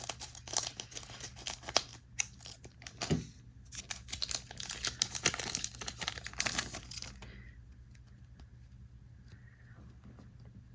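Foil wrapper of a trading card booster pack being torn open and crinkled, a dense run of sharp crackles that stops about seven seconds in.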